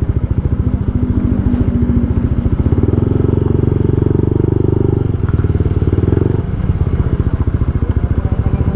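Yamaha 155 cc single-cylinder scooter engine with an aftermarket JVT exhaust pipe, running at low speed with a fast, even firing pulse. It gets louder about three seconds in and drops back about six and a half seconds in.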